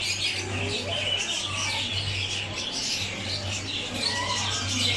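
Many small caged birds chirping and squawking all at once in a dense, continuous chatter, over a steady low hum.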